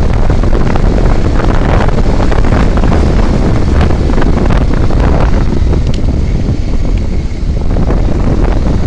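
Loud wind buffeting the microphone of a vehicle moving along a road, a steady rumbling rush with the vehicle's running noise underneath.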